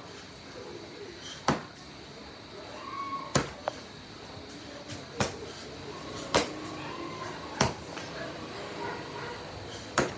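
Repeated karate punches landing as sharp smacks, about six of them, one every one to two seconds.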